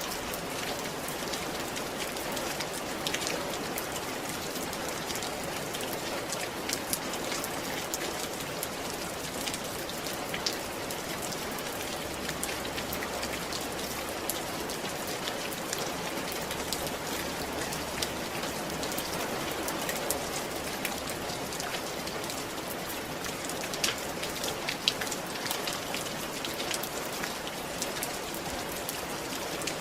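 Steady rain on a roof: a continuous hiss with many separate drop taps standing out, a few louder ones about 24 and 25 seconds in.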